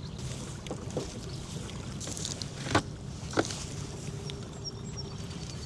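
Sounds aboard a small fishing boat: a steady low hum with a few sharp knocks on the boat, the loudest a little before the middle.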